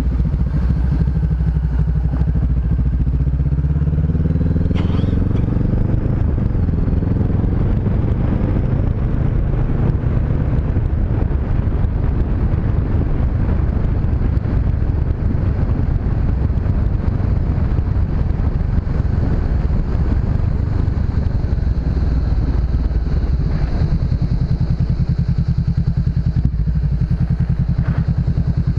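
Honda CB500X's parallel-twin engine running as the motorcycle accelerates, its pitch rising for a few seconds near the start, then holding a steady pace under a loud rush of wind and road noise at speed.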